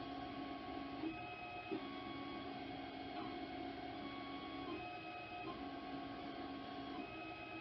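Ender 3 Pro 3D printer running, its stepper motors giving off steady whining tones that jump to a new pitch every second or two as the moves change speed.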